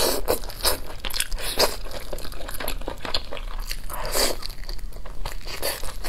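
Close-up eating sounds of pieces of chili-coated whole chicken being bitten and chewed, with many short wet mouth clicks and smacks. Two longer noisy bursts come about half a second in and again around four seconds in.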